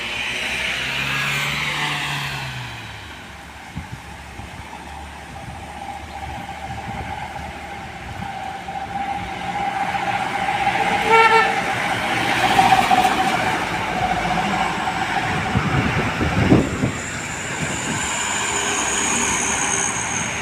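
Heavy road traffic passing, with a vehicle horn sounding: a long steady horn tone through the middle and a short toot about eleven seconds in, then a heavy truck rumbling past near the end.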